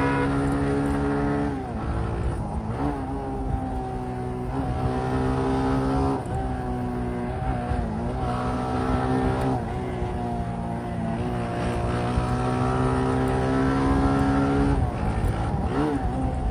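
Motorcycle engine running hard under changing throttle, its pitch holding, rising and falling, with a sharp dip about five times through the stretch.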